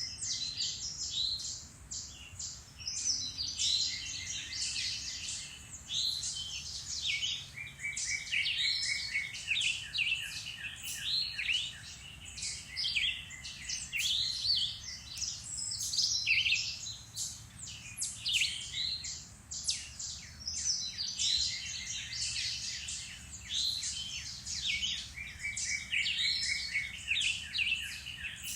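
Several woodland songbirds singing together: overlapping chirps and whistled phrases, with short trills of evenly spaced notes repeating every few seconds.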